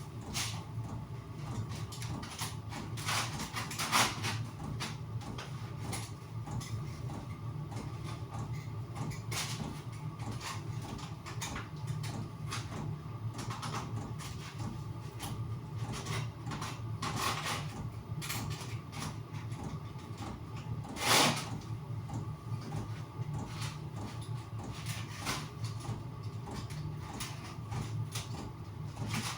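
Irregular scraping strokes of a knife cutting and trimming material by hand, with a sharper knock about 4 seconds in and another about 21 seconds in, over a steady low hum.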